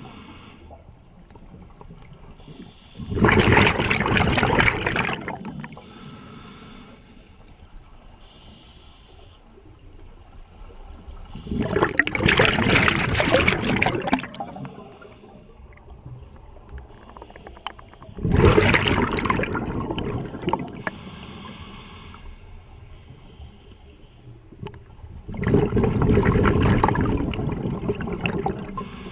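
Scuba diver breathing through a regulator underwater: four loud rushes of exhaled bubbles, each two to three seconds long and about seven seconds apart, with quieter regulator hiss in between.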